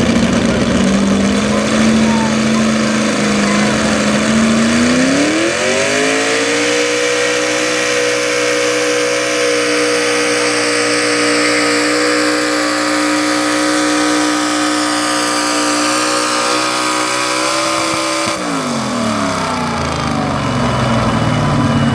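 Two-wheel-drive super stock pulling truck engine at full throttle during a sled pull: it rises sharply in pitch about five seconds in, holds a steady high rev for around twelve seconds, then drops off quickly near the end as the throttle is let go.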